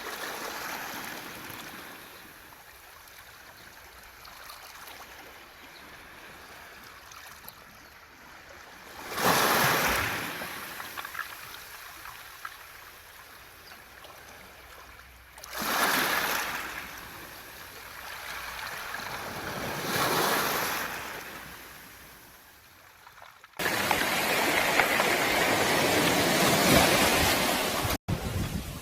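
Waves washing up and back over a beach of smooth round pebbles (mongdol), swelling in three separate surges. Then a sudden cut to a louder, continuous wash of surf over the stones near the end.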